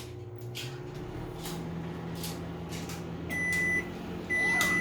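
Samsung microwave oven running with a steady low hum, a couple of faint clicks, then two high beeps about a second apart near the end as the short timed heating finishes.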